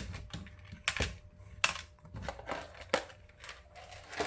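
A string of irregular sharp clicks and light knocks, about eight in four seconds, from small hard parts and screws being handled and set in place.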